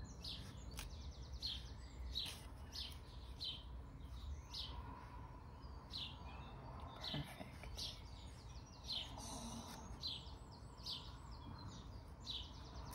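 A small bird chirps repeatedly in the background: short, high, falling chirps, roughly one a second, with a brief pause about midway.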